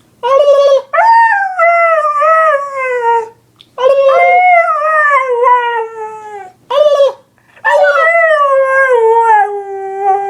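Husky howling in five calls: two short ones and three long, wavering howls that each fall in pitch over two to three seconds, with brief gaps between them.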